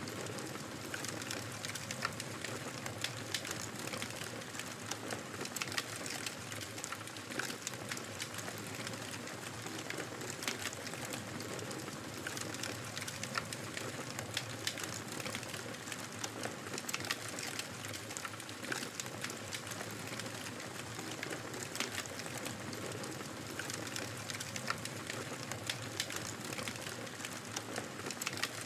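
Wood fire crackling in a fireplace: a steady hiss with frequent small, sharp pops and snaps.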